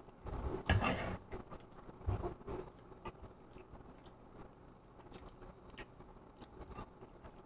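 Close-up chewing of a mouthful of pasta, loudest in the first second, with small light clicks of a metal fork scooping food from the pan.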